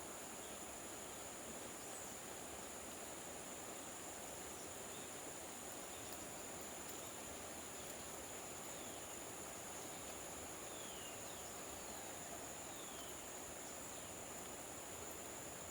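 Outdoor ambience: a steady high-pitched insect drone, crickets or similar, over an even background hiss, with a few short falling chirps in the second half.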